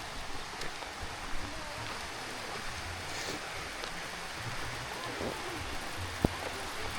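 Heavy rain falling steadily, an even hiss, with a single sharp tick about six seconds in.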